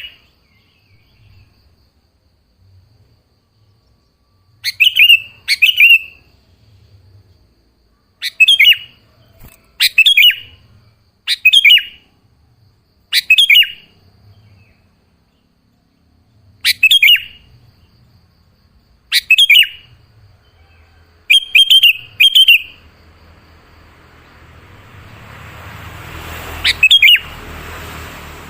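Sooty-headed bulbul calling: short, bright chirping phrases repeated every second or two, often in quick pairs. In the last few seconds a hiss swells up under one more call.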